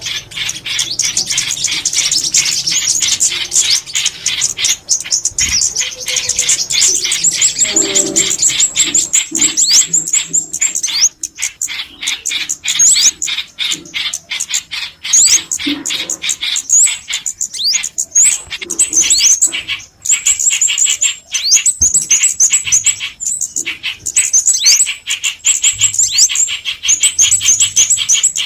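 Small songbirds calling rapidly: dense high chirps and twittering with quick up-and-down note sweeps, broken by brief pauses.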